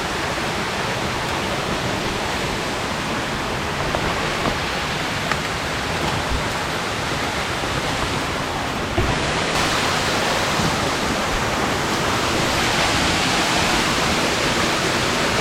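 Steady rush of flowing stream water, a little louder from about nine seconds in.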